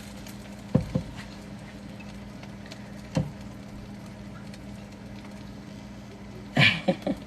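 A few light clacks of a cooking utensil against a frying pan over a steady low hum, then a brief burst of a woman's voice near the end.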